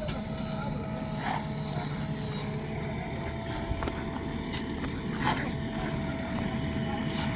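Heavy diesel engine running steadily, with a few faint short clicks over it.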